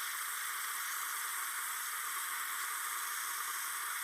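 Brazing torch flame hissing steadily on a refrigerator copper pipe joint.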